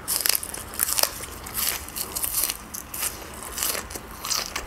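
Fresh green onion stalks being bitten and chewed close to the microphone: a run of crisp, irregular crunches.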